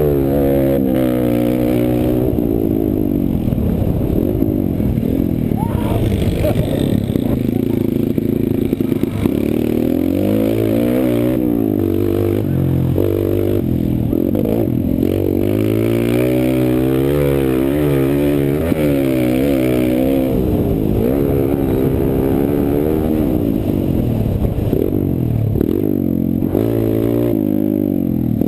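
Kawasaki KLX140 pit bike's single-cylinder four-stroke engine under racing throttle, its pitch rising and falling every second or two as the rider opens and closes the throttle and changes gear.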